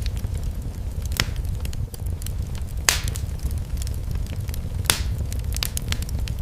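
Fireplace fire crackling over a steady low rumble, with scattered small ticks and three sharper pops about one, three and five seconds in.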